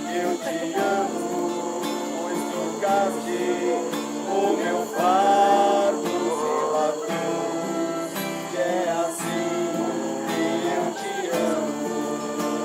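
Acoustic guitar strumming, with a group of voices singing along.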